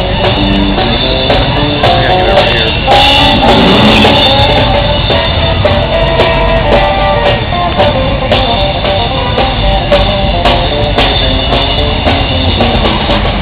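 Loud rock music with a drum kit and guitar, the drum hits steady throughout, with a short rush of noise about three seconds in.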